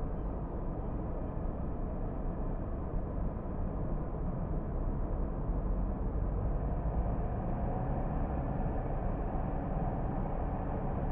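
Car driving along at a steady pace: a continuous low rumble of engine and tyre-on-road noise. From about halfway, a faint whine rises slightly in pitch.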